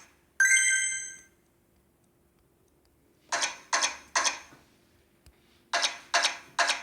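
Video slot machine game sounds: a short ringing chime about half a second in, then two runs of three quick clicks, each fading fast, over a faint steady hum.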